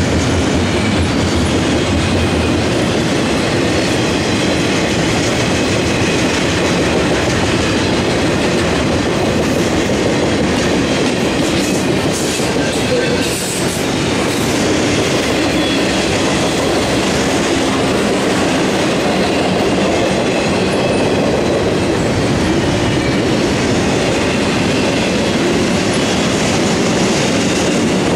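Intermodal freight train cars rolling past close by: a steady, loud rumble and clatter of steel wheels on the rails.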